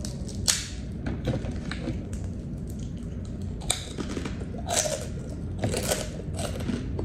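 Crisp crunching and crackling of chicharon (pork cracklings) being bitten and chewed close to the microphone: one sharp crunch about half a second in, then a run of crunches from about four to six and a half seconds in.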